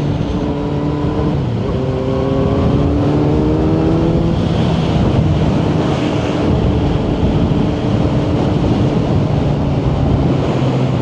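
2018 Kawasaki Z900's inline-four engine through a Yoshimura exhaust under way. The engine note rises for a few seconds, drops about four seconds in, then holds steady, with wind rush behind it.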